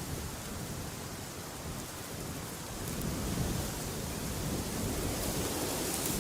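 Steady rushing wind, with a deeper rumbling gust swelling about three seconds in and holding.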